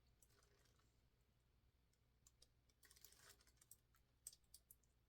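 Near silence, with a few faint clicks and a brief soft hiss about three seconds in.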